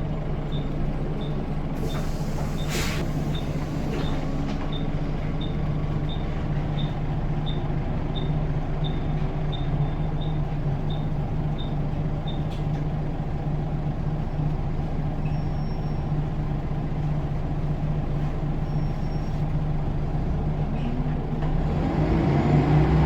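Scania L94UB bus's diesel engine idling steadily at a standstill after winding down, with an indicator ticking about one and a half times a second until about halfway through and a short hiss of air about three seconds in. Near the end the engine revs up as the bus pulls away.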